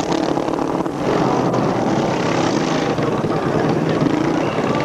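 Several motorcycle engines running at once. Their overlapping engine notes make a loud, steady drone with small shifts in revs.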